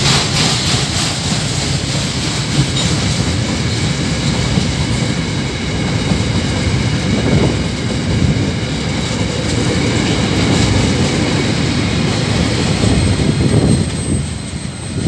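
Freight wagons rolling past close by: a steady rumble of steel wheels on the rails, with clickety-clack and a faint high wheel whine. The rumble dips near the end as the last wagon goes by.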